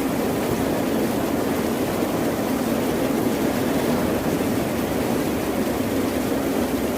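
A continuous, even rush of water noise with no distinct wave breaks or surges, typical of an ambient ocean-surf or rain recording.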